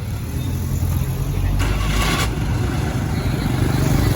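An engine running steadily, with a brief hissing rush about halfway through.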